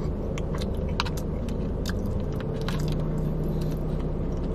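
Close-miked chewing and crunching of fast food, with scattered sharp clicks from mouth and fork, over a steady low hum.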